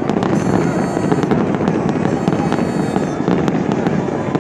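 Fireworks display going off: a dense, continuous crackling of many small pops over a steady rush of noise, with two brief high whistles in the first three seconds.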